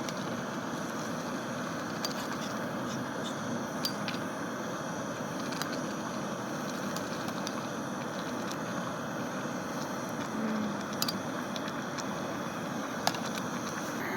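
Campfire burning with a few sharp, scattered crackles over a steady low rushing noise.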